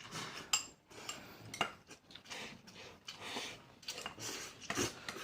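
Eating sounds at a meal: scattered light clinks and taps of utensils against bowls and plates, with softer eating noises between them.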